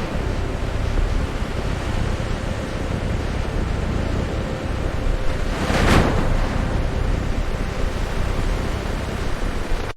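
Loud, steady rushing noise that swells briefly about six seconds in.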